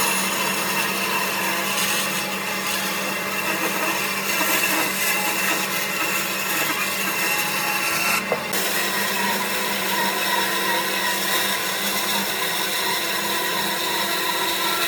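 Electric woodworking power tool running steadily, with a brief dip in the sound about eight seconds in.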